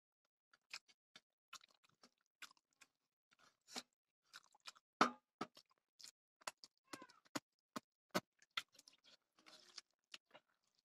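A person chewing and smacking on a mouthful of rice with pork and beans eaten by hand: a faint string of short, irregular mouth clicks.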